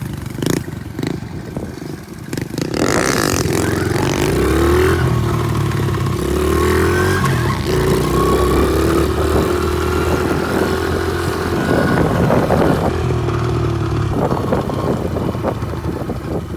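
Pit bike engine running and revving, rising and falling in pitch, louder from about three seconds in.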